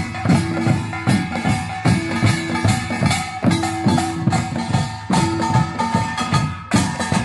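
Korean samul nori percussion ensemble playing a fast, dense rhythm: small hand gongs, hourglass drum and barrel drum struck in quick succession.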